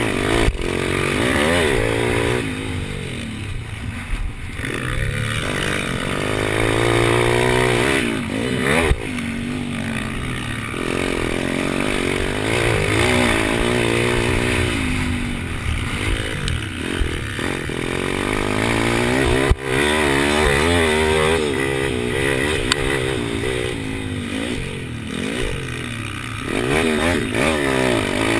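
Pit bike engine revving hard through a race lap, its pitch climbing and dropping again and again as the throttle opens and closes and gears change. Two sharp knocks stand out, about a third of the way in and again about two-thirds in.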